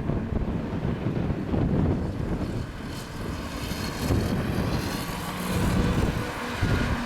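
Jet airliner's engines running, heard through heavy wind buffeting on the microphone, with a rising whine from about two and a half seconds in.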